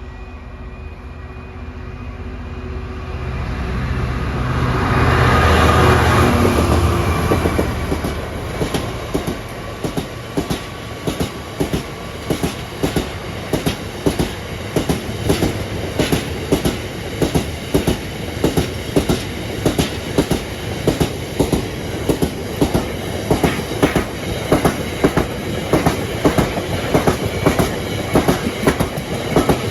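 Diesel-hauled freight train passing close by: the locomotive's engine builds to its loudest about six seconds in, then the wagons follow with a steady clickety-clack of wheels, about two clicks a second.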